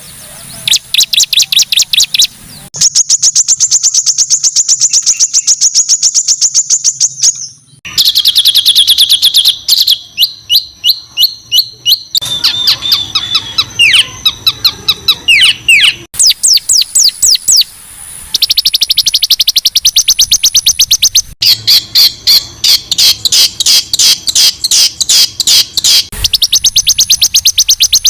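Songbird song from a masteran tutor recording: loud, high-pitched 'tembakan kasar' phrases, fast buzzy trills and rapid strings of sharp repeated notes. The phrases are spliced together and change abruptly every few seconds.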